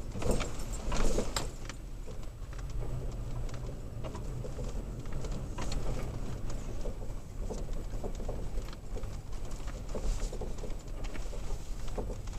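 Third-generation Toyota Tacoma driving a rough dirt road, heard from inside the cab: a steady low rumble of engine and tyres with frequent small clicks and rattles from the bumpy surface.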